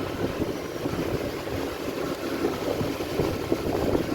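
Wind buffeting the microphone on a moving motorbike, a steady rough rumble with the ride's vehicle noise underneath.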